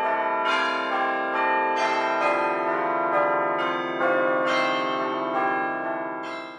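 Bells chiming a tune, a new strike about twice a second with each note ringing on under the next, fading out near the end.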